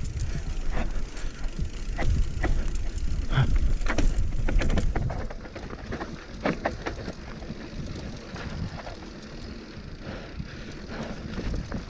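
Mountain bike running down a rough dirt trail: wind rumbles on the microphone and the bike rattles and clicks over rocks and bumps. It eases off after about five seconds.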